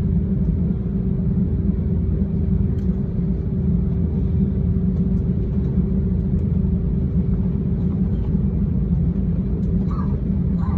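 Steady low rumble with a constant hum running through it, and a few faint ticks.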